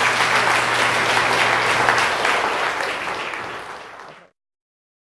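Audience applauding, thinning out over the last couple of seconds and then cutting off abruptly about four seconds in.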